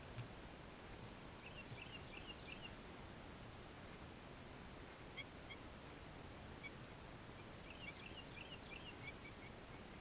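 Faint bird chirping: two quick runs of short, high notes, with a few single chips between them.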